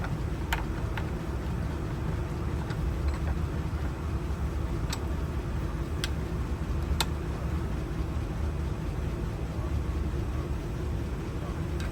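A few sharp metallic clicks and ticks as a small hand tool works inside a corroded lock cylinder, over a steady low rumble like an engine running.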